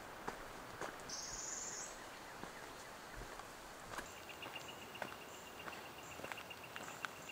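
Faint woodland ambience with soft footsteps on a trail, a short high buzzy call about a second in, and a fast, even, high-pitched animal trill starting about four seconds in and lasting some three seconds.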